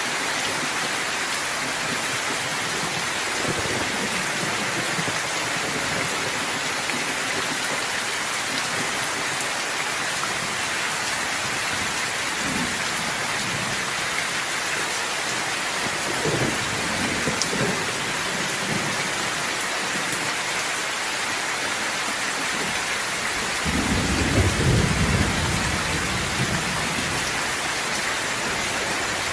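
Steady heavy rain falling, with thunder rumbling now and then: a few short low rumbles in the middle and a longer, louder roll of thunder near the end.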